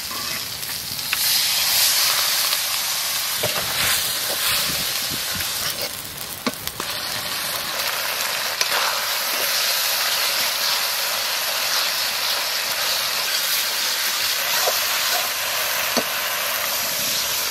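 Spice paste frying and sizzling in hot mustard oil in an aluminium kadai, the sizzle growing louder about a second in as a little water is added. A spatula stirs and scrapes against the pan, with scattered clicks.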